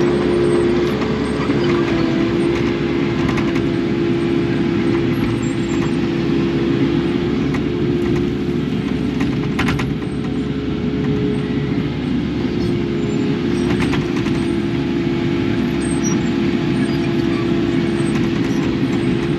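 Kubota KX080 excavator running steadily under work, its diesel engine and hydraulics giving a constant droning tone. A few brief clanks sound about ten and fourteen seconds in.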